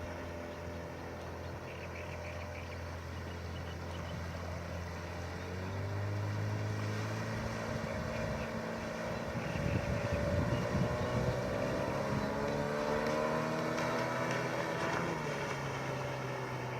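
Suzuki DT 9.9 two-stroke outboard motor running at low speed, then throttled up about six seconds in, its pitch rising and the sound getting louder.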